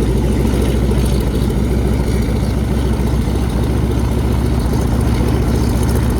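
Bell UH-1 'Huey' helicopter running, its turbine engine and rotor making a loud, steady low drone.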